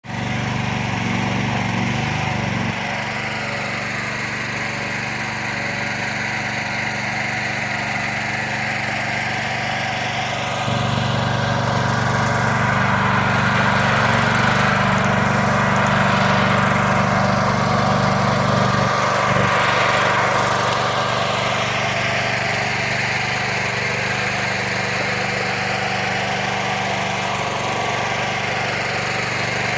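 Engine driving a 40-ton hydraulic log splitter, running steadily, its note and loudness shifting a few times as the load changes.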